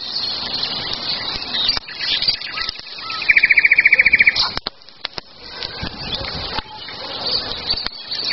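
Wild birds singing, with high chirps throughout and one rapid, even trill of about a dozen notes lasting about a second, a little past three seconds in, the loudest sound.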